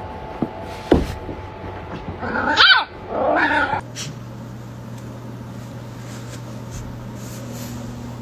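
A pet dog vocalizing in two short loud bursts with pitch that bends up and down, after a sharp knock about a second in; a steady low hum follows.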